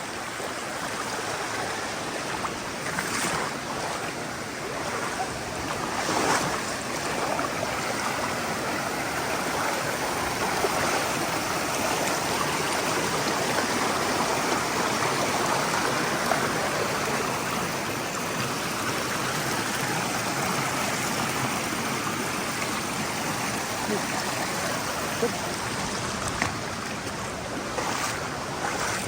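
Mountain stream rushing over boulders, a steady dense wash of water noise, with a few faint knocks.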